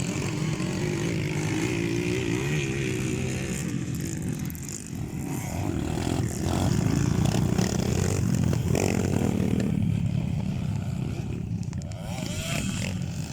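Motocross dirt-bike engines revving, their pitch rising and falling as the bikes ride the track. The sound dips about five seconds in and comes back louder a second or so later.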